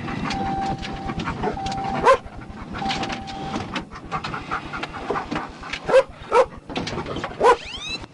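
A dog panting quickly, with a few short high whines or yelps.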